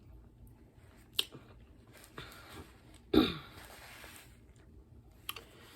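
A woman's mouth and throat sounds while drinking cold water: a few small clicks, then about three seconds in a short, loud swallow-like vocal sound that falls in pitch, followed by a breathy exhale.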